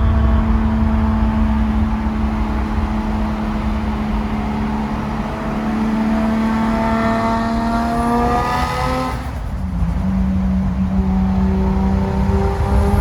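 A car's engine under way, its pitch climbing steadily for a few seconds as it pulls through a gear, then dropping suddenly about nine and a half seconds in at a shift and settling steady, over heavy low road rumble.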